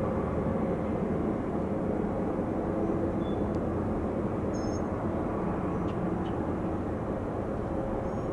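Steady jet airliner engine noise: an even, broad rumble that holds level without rising or falling.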